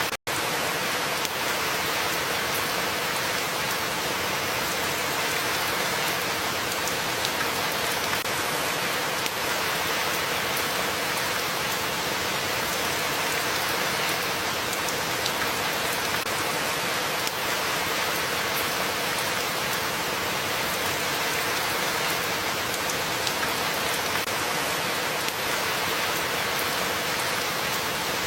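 Steady rain falling, an even dense patter of drops on a surface. Just after the start the sound cuts out for an instant, then carries on unchanged.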